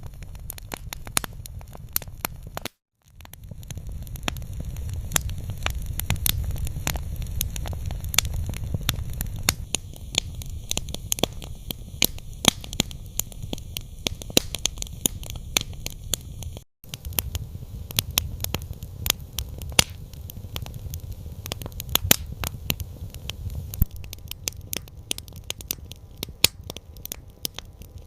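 Campfire crackling: frequent sharp pops and snaps over a steady low rumble of burning wood. There are two brief gaps of silence, about three seconds in and about two-thirds of the way through.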